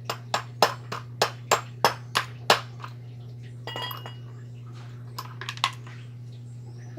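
Sharp metallic taps, about three a second for two and a half seconds, then a single ringing clink and a few more quick clicks, over a steady low hum.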